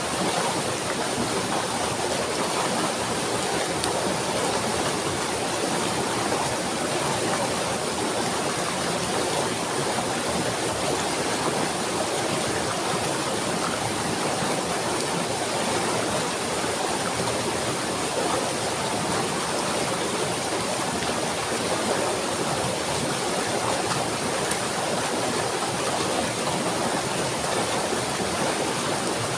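Running water rushing steadily, with no change in level.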